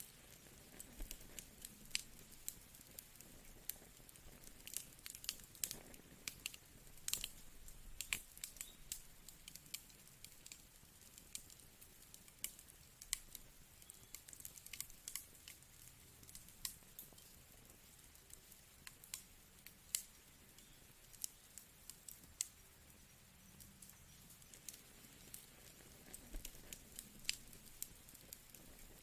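Wood fire crackling: irregular sharp pops and snaps from the burning logs, several a second at times, over a soft hiss.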